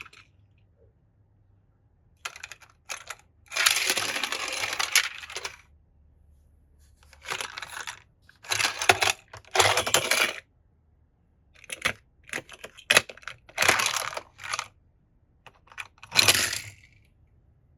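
Toy cars being handled: irregular sharp clicks and clinks of small hard pieces knocking together, between longer scraping, rustling stretches, the longest about four seconds in.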